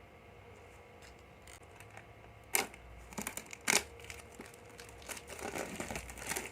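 Paper rustling and crinkling as a book is handled. Quiet at first, then two sharp rustles about two and a half and three and a half seconds in, and a run of closer, busier rustling near the end.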